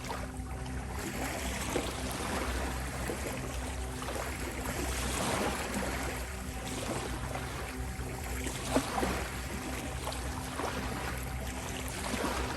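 Ocean waves washing and breaking in slow swells, with the odd sharp splash, over a steady sustained tone pitched at 528 Hz.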